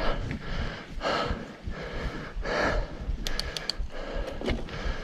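Mountain biker breathing hard, with loud breaths coming about every second and a half, over a low rumble from the ride. A few short, high ticks sound about three and a half seconds in.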